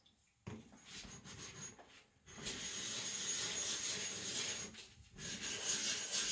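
Atoma 140 diamond plate rubbed back and forth with light pressure over a wet 400-grit whetstone to flatten it: a gritty scraping. It starts faintly about half a second in, turns steady and louder from about two seconds in, and breaks off briefly near five seconds.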